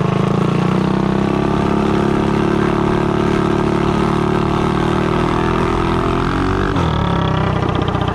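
Doodlebug mini bike's small engine running steadily, with a brief change in engine speed about seven seconds in.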